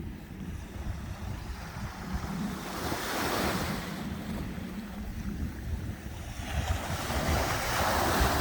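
Sea waves washing in, two swells of surf about three seconds in and again near the end, with wind rumbling on the microphone throughout.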